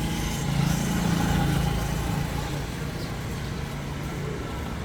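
A steady low motor rumble, like an engine running, growing louder for about a second near the start and then settling back.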